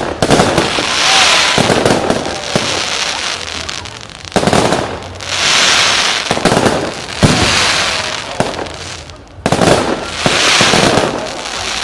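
Fireworks display: four sharp bangs of shells bursting, each followed by a second or two of high hissing.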